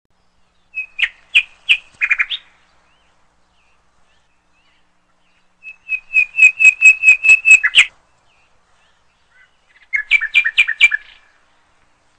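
A small bird chirping in three short runs of quick, repeated chirps. The first run begins about a second in, the second about halfway through, and the third near the end.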